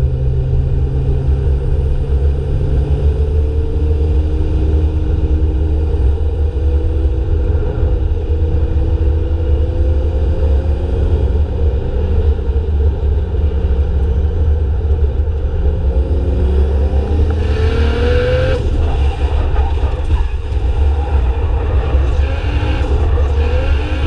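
Drift cars' engines running and revving over a heavy, steady low rumble, their pitch sliding up and down. About three quarters of the way through, a louder, harsher stretch comes as one engine note rises sharply.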